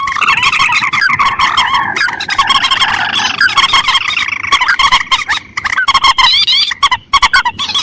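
Bird-lure recording of rice-field rail calls (mandar and tikusan), a dense, loud run of many short overlapping calls that bend up and down, with no break. It is a looped call track used to draw these birds in.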